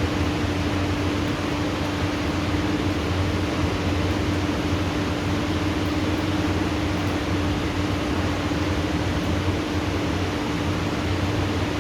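Rain falling steadily in a thunderstorm downpour, an even hiss with a steady low hum underneath.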